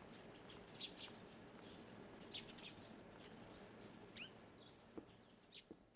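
Near silence: faint room tone with a few short, faint bird chirps scattered through it, one a quick rising chirp.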